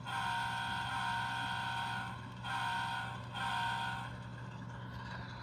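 Sound decoder of an HO scale Norfolk Southern diesel locomotive model blowing its chime horn through the model's small speaker: one long blast, then two shorter ones. The model's diesel engine idle sound hums steadily underneath.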